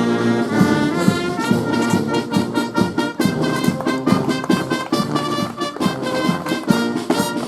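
Brass band playing a short fanfare, trumpets and trombones sounding quick repeated notes and held chords.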